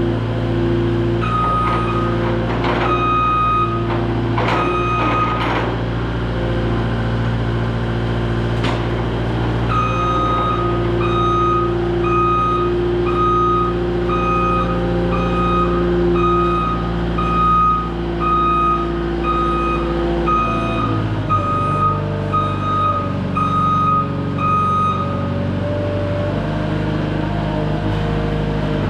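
Cat 259D3 compact track loader's diesel engine running, with its reversing alarm beeping: three beeps near the start, then a long run of about one beep a second from about ten seconds in. A few metal clanks sound in the first six seconds, and the engine note drops to a lower speed about twenty seconds in.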